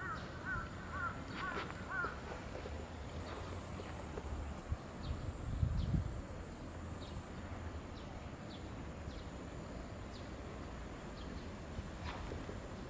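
A bird calling outdoors, a rapid series of about five short notes in the first two seconds, then steady background noise with a brief low rumble a little before halfway.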